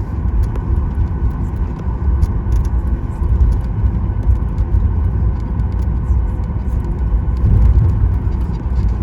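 Cabin noise of a Boeing 737 MAX 9 taxiing: a steady low rumble from the wheels rolling on the taxiway and the CFM LEAP-1B engines running at low thrust, with a faint steady hum above it.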